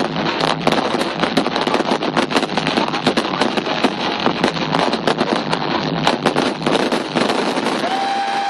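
Fireworks going off in a rapid, dense run of bangs and crackles that thins out about seven seconds in. A steady high tone starts near the end.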